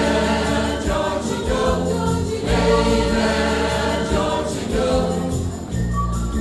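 Music: a choir singing over a steady bass line.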